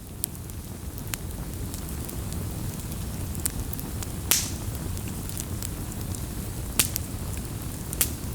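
Wood fire burning with a steady low rumble and scattered sharp crackles and pops, the loudest pop about four seconds in.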